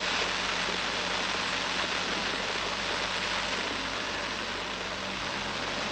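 Steady rushing noise of a car on the move, with a faint low engine hum underneath.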